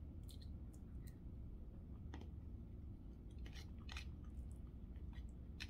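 Quiet chewing of a mouthful of roast, with a few short, light clicks of a fork against a plastic food container.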